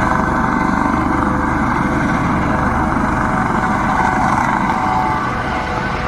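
Coast Guard helicopter hovering close by, a steady turbine whine and rotor noise, with strong rotor downwash gusting against the microphone.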